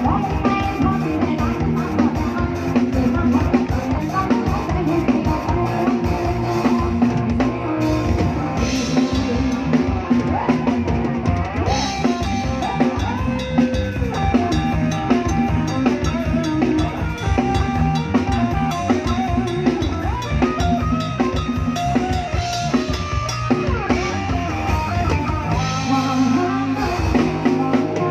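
Live band music led by a steady drum-kit beat with bass drum and snare, with sustained melodic instrument lines over it and no clear singing.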